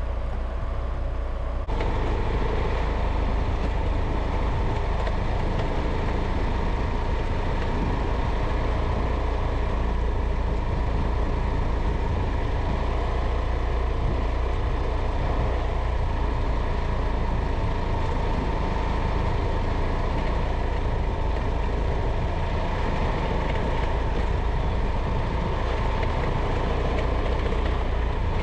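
Steady road noise of a moving vehicle: low engine and tyre rumble with a faint steady hum, growing a little louder and brighter about two seconds in and holding steady after that.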